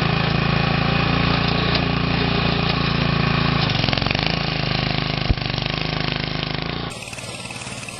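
An engine running steadily, its pitch dipping and recovering about four seconds in, with a single sharp click a little after five seconds. Near the end the sound cuts abruptly to a quieter, noisier scene.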